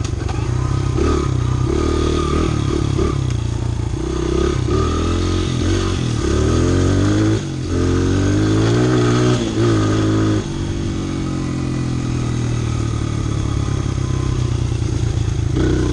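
Honda CRF100F dirt bike's single-cylinder four-stroke engine running under a rider, its note rising and falling with the throttle. It drops off briefly twice, around the middle, then holds a steadier pitch.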